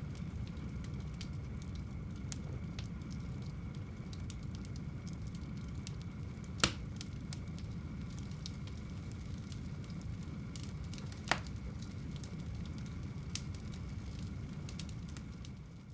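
Fire burning in a home fireplace: a steady low rumble of flame with scattered small crackles and two sharp, loud pops about a third and about two thirds of the way through. It fades down at the very end.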